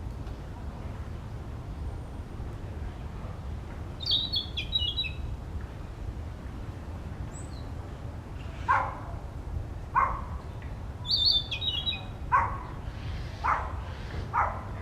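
Narcissus flycatcher singing two short phrases of high stepped whistles, a male practising his song. From about halfway on, a louder, lower harsh call repeats roughly once a second over a steady low background rumble.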